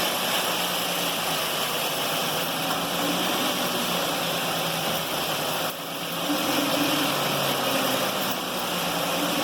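Steady mechanical rumble and hiss from the front driveline of a 2011 Ford Edge running in gear, picked up at the axle with a mechanic's stethoscope; it dips briefly about six seconds in, then comes back. The noise is strongest at the CV joint, which the mechanic suspects is where it comes from.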